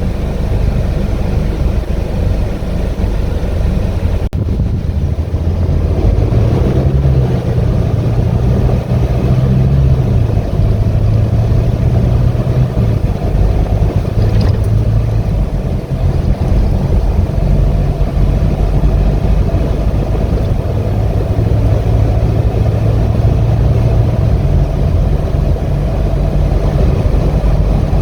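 2018 Hino 155 box truck driving on the road: its four-cylinder turbo-diesel engine runs under load over steady road and tire noise, and the engine note steps up and down in pitch several times.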